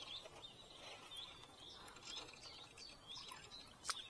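Small birds chirping faintly: a string of short, high chirps. There is one sharp click near the end.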